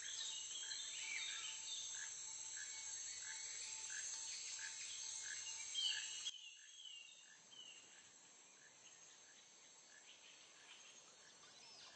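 Faint outdoor nature ambience: birds chirping, with a short note repeating about twice a second over a steady hiss. The sound drops quieter about six seconds in.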